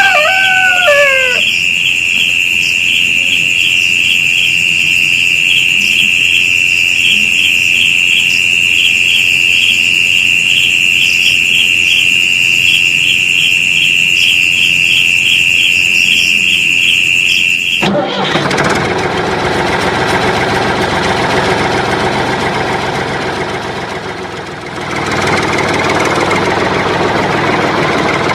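A loud, steady high-pitched electronic tone with a fast regular pulse, which cuts off suddenly about eighteen seconds in and gives way to the sound of an engine running, with a brief drop in level a few seconds later.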